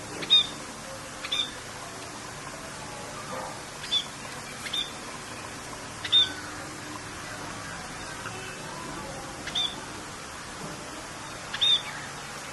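Short high bird chirps, about seven of them at irregular gaps of one to three seconds, over a steady rain hiss.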